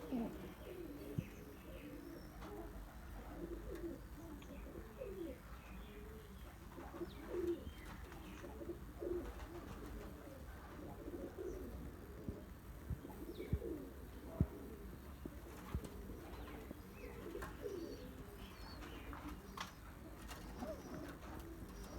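Domestic pigeons cooing, many short repeated coos overlapping, with a few sharp clicks among them.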